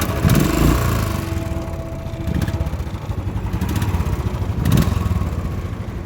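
Royal Enfield Classic 500 single-cylinder engine running, revved briefly twice, near the start and about five seconds in.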